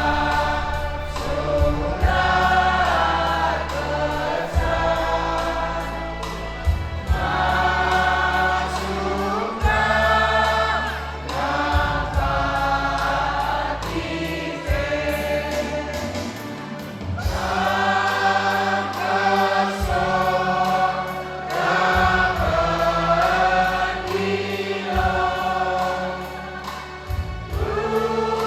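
Several voices singing together in chorus, with musical accompaniment. A sustained low bass changes every second or two underneath.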